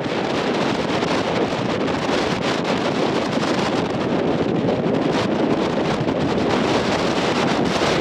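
Steady wind rushing over the microphone aboard a moving sightseeing ship, with the ship's running noise beneath it.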